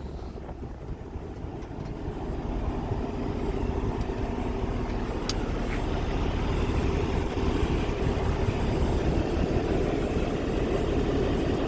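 Heavy diesel truck engine idling with a steady low rumble that grows louder over the first few seconds. A single faint click comes about five seconds in.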